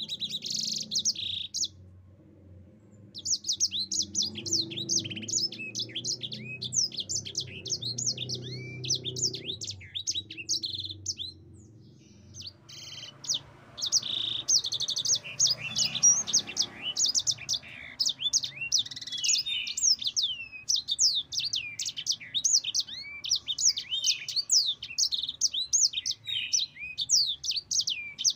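Yellow-fronted (Mozambique) canary singing long, rapid rolls of high twittering chirps and trills. The song breaks off briefly about two seconds in and again about eleven seconds in.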